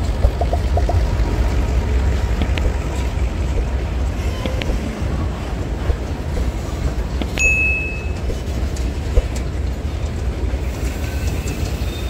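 Freight train rolling past: a steady low rumble with scattered clicks and knocks from the wagons, and a brief high-pitched squeal about seven and a half seconds in.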